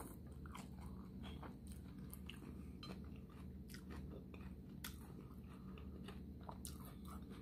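A person chewing a mouthful of hard-shell beef taco: faint, irregular crunches of the fried corn shell, over a low steady hum.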